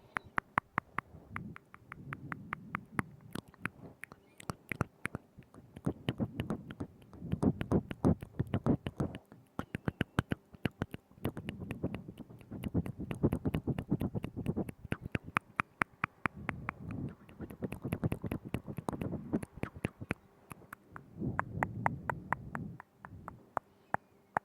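Close-miked ASMR mouth sounds: rapid wet clicks and smacks of tongue and lips, in runs of a few seconds separated by short pauses.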